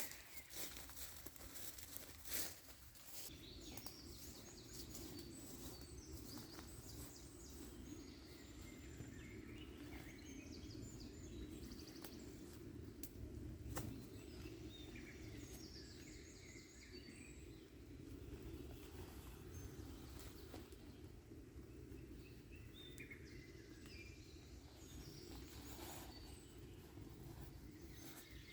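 Faint forest ambience of small birds chirping on and off over a low steady rumble, with a few sharp clicks.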